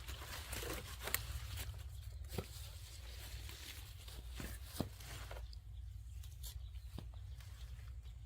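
Irregular rustling with scattered sharp clicks and snaps, over a steady low rumble.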